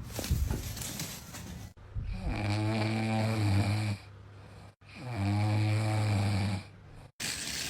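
Snoring: two long, loud, steady snores, each about a second and a half, with a short silence between them.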